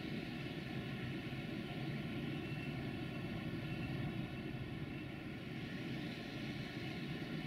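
Steady distant drone of a train in a railway yard: a low rumble with faint steady tones over it.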